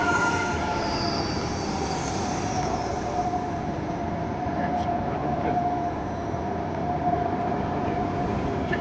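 High-speed train running on rails: a steady rumble with a steady high whine over it.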